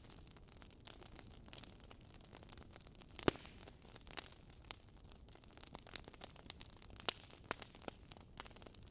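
Wood fire crackling in a fireplace: irregular sharp pops and snaps over a low hiss, the loudest pop about three seconds in.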